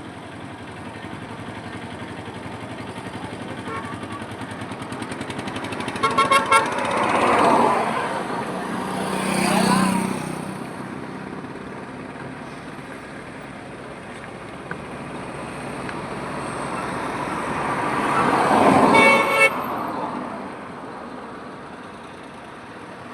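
Highway traffic with vehicles passing one after another, their sound swelling and fading. Horns honk in short repeated toots about six seconds in and again near the end of the second pass, around nineteen seconds.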